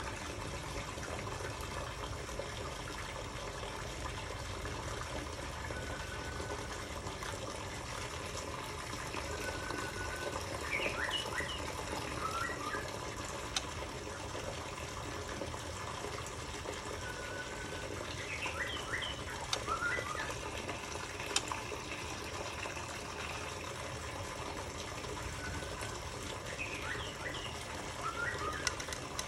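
A caged songbird calls in three short bouts of quick chirped notes, with a few brief single whistles between them, over a steady rush of running water.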